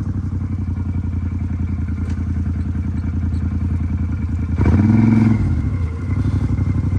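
Off-road vehicle engine running steadily at low speed, with a short rev about four and a half seconds in that falls back after under a second.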